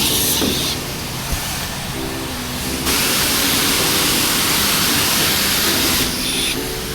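High-pressure spray wand at a self-serve car wash spraying in a steady hiss: a short burst right at the start, then a longer continuous spray of about three seconds, cutting off near the end.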